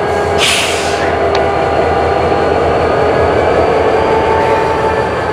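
Freight train rolling through a rail yard: a steady rumble with steady high tones over it, and a short burst of hiss about half a second in.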